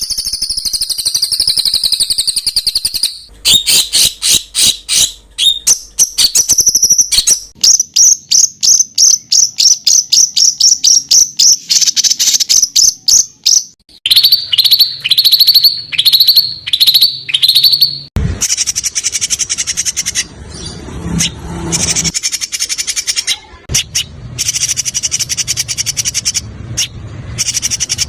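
Loud songbird song made of rapid trains of sharp, high repeated notes, several a second. About halfway through comes a run of down-slurred whistles, then denser, buzzy chattering.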